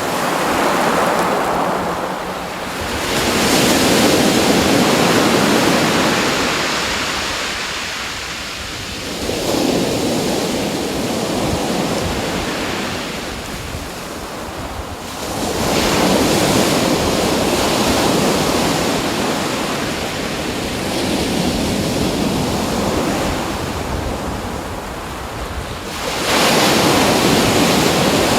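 Waves breaking and washing in on a shore: a rushing noise that swells up and ebbs away, with a fresh wave every several seconds.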